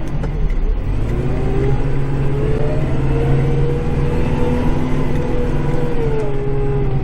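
Kubota tractor's diesel engine running steadily under load, heard from inside the cab, with a whine that rises a little through the middle and falls back near the end.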